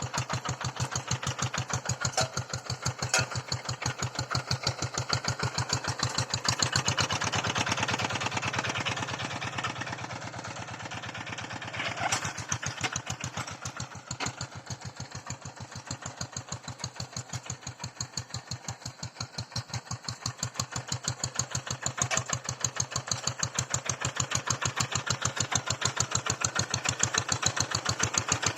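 Hand tractor's small engine running steadily with a fast, even firing beat while ploughing. It swells for a few seconds partway through, then eases back to a steady run.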